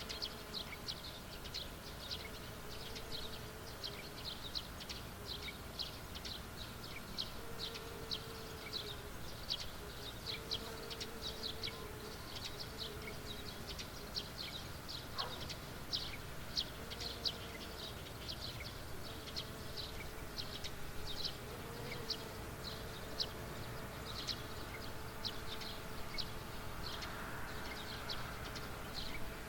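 Countryside field ambience: a small creature chirps over and over, short high chirps about two to three a second. Underneath runs a low, steady, wavering buzz.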